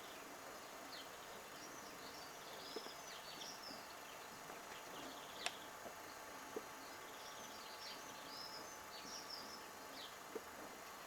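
Small birds chirping and twittering in quick clusters of high notes over a steady hiss, with a few sharp clicks, the loudest about halfway through.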